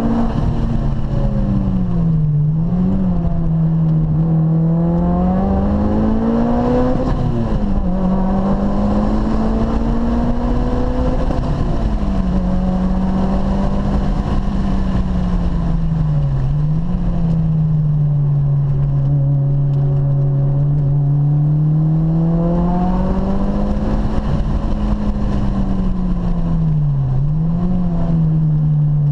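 Car engine heard from inside the cabin on a track lap, its note holding and gliding under throttle and dipping sharply about five times before climbing again, over steady road and tyre rumble.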